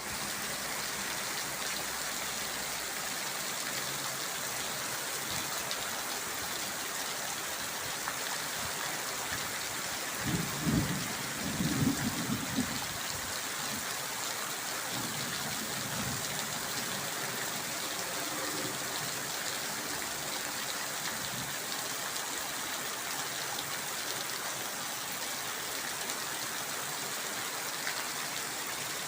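Heavy rain pouring steadily, an even hiss of downpour. About ten seconds in, a brief low rumble rises above it for two or three seconds.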